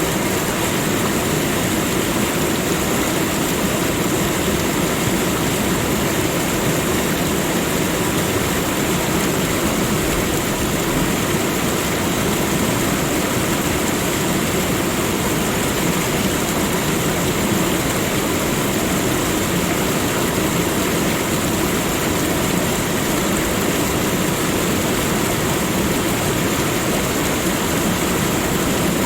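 Waterfall: falling water making a loud, steady rush that does not change.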